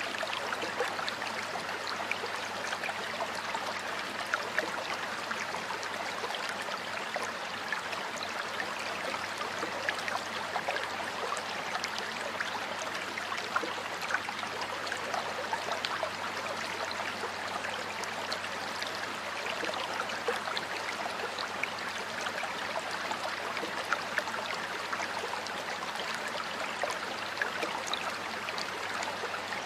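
Stream water flowing steadily over rocks, a continuous babble with many small splashes and trickles.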